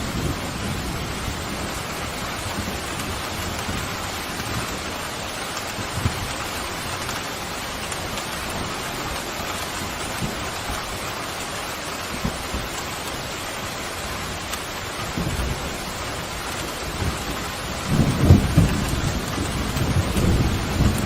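Steady heavy rain with thunder: brief low rumbles at about 6 and 15 seconds in, then a louder, longer roll of thunder starting near the end.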